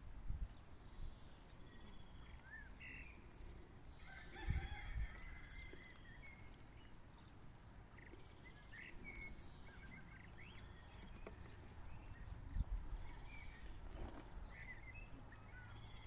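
Quail calling softly: scattered short chirps and little trills, with a few higher peeps. Low dull thumps come about four seconds in and again near the end.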